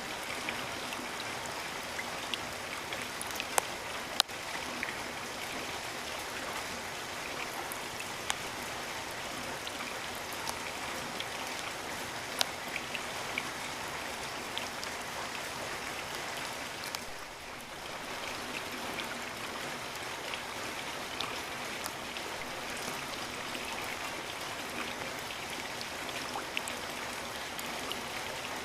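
Steady rain falling, an even hiss with scattered sharp drop hits close by. It eases briefly about seventeen seconds in.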